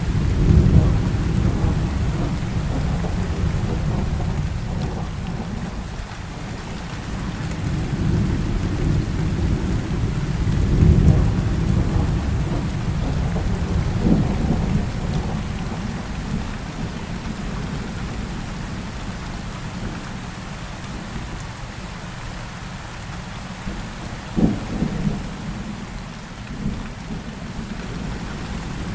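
Heavy rain falling steadily with rolling thunder. Deep rumbles swell about a second in and again around eleven seconds, and sharper thunderclaps crack around fourteen and twenty-four seconds.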